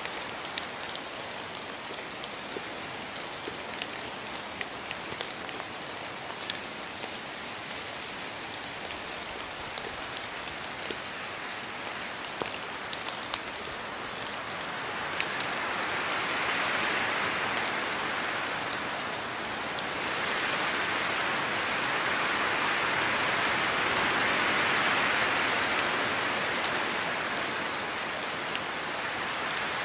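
Heavy rain falling, a steady hiss dotted with many sharp ticks of single drops. It grows louder about halfway through and stays heavier.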